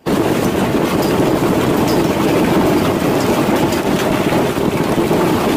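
Loud, steady rushing storm noise, with faint scattered ticks.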